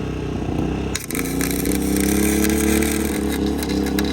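Flux-core wire welder arcing with a sputtering crackle that starts suddenly about a second in, over the steady running of the portable generator that powers it.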